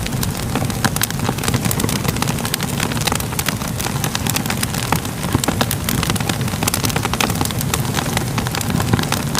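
Crackling fire: a steady low rumble of flames with frequent, irregular sharp pops and snaps.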